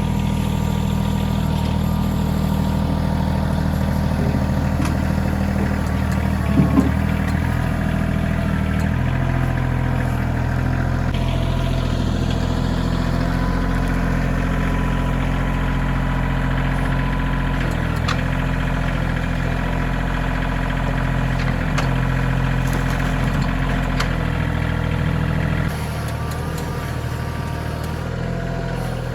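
Kioti CK2620 compact tractor's three-cylinder diesel engine running steadily while working the front loader, with its engine speed shifting a few times and dropping lower near the end. A brief knock comes about a quarter of the way through.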